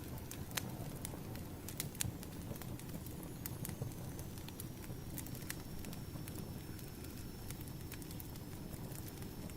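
Burning firewood crackling: irregular sharp pops and snaps over a steady low rumble of the flames.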